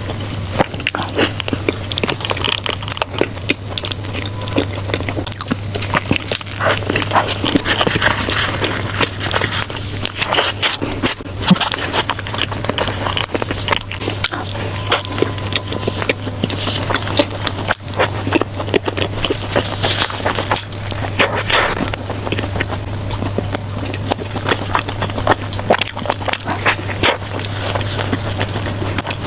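Close-miked eating: irregular biting and chewing, with wet crackly mouth clicks, over a steady low hum.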